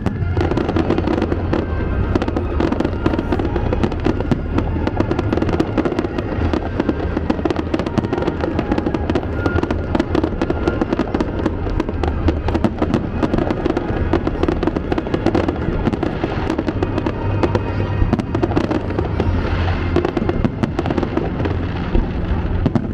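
Aerial fireworks bursting in a dense, continuous barrage of crackles and bangs, with music playing underneath.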